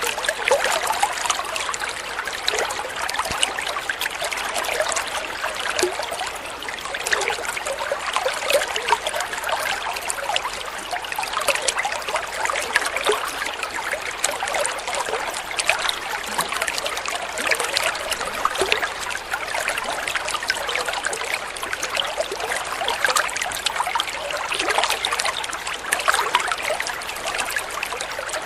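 Flowing water trickling steadily, a continuous babble of many small splashes.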